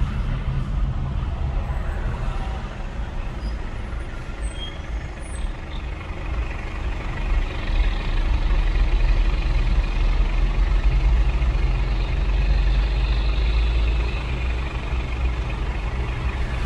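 Steady road noise of a moving car heard from inside the cabin: a low rumble of engine and tyres with a hiss above it, growing louder about halfway through.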